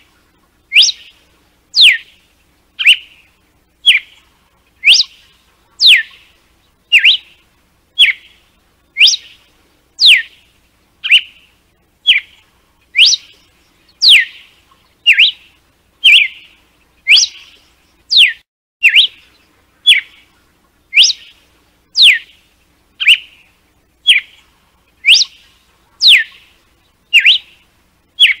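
Red-cowled cardinal (galo-de-campina) singing its 'açoite' song: short, sharp whistled notes about once a second, some sweeping up and some sweeping down, repeated steadily.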